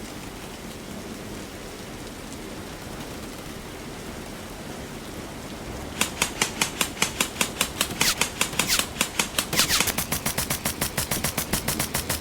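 A steady hiss, then about halfway through an airsoft gun starts firing on full auto, a fast run of sharp cracks at about eight a second that goes on to the end.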